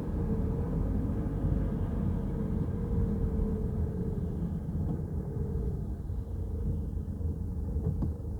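Peugeot Rifter driving: a steady low rumble of road and engine noise, with a faint drone that wavers in pitch.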